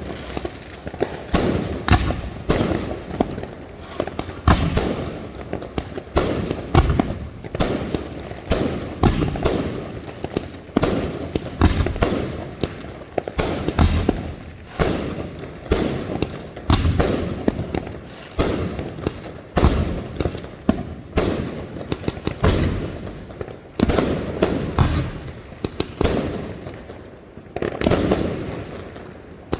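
Fireworks going off in a dense, continuous barrage: many sharp bangs a second, each with a short echoing tail.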